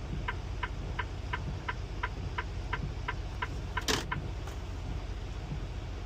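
A semi truck's indicator clicking at a steady pace of about three clicks a second, stopping about three and a half seconds in, over the low rumble of the idling diesel engine. A brief sharp hiss sounds just before four seconds.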